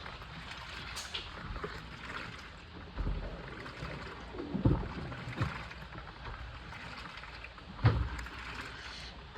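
Washing machine with water sloshing in the drum, broken by a few low thuds, the loudest near the end.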